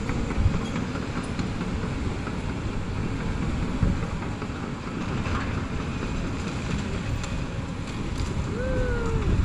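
Excavator's diesel engine running steadily under load, with a few knocks and crunches of the house being torn down, one louder about four seconds in. Near the end there is a short squeal that rises and then falls.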